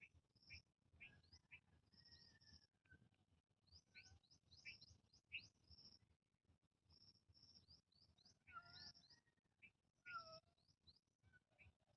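Small birds chirping faintly, a steady scatter of short, high notes and quick downward-sliding calls.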